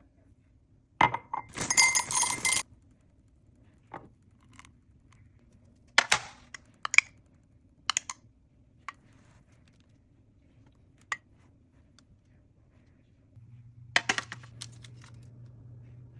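Metal utensil clinking and scraping against dishes: a dense, ringing burst of clinks about a second in, then a scattered series of single light taps. A low steady hum comes in near the end.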